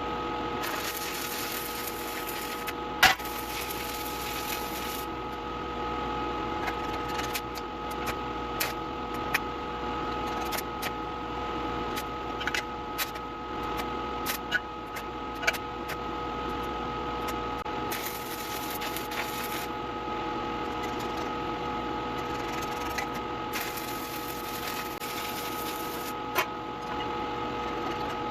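Fast-forwarded shop-work sound: a steady hum with scattered sharp clicks and knocks, and a few stretches of hissing crackle lasting a second or two.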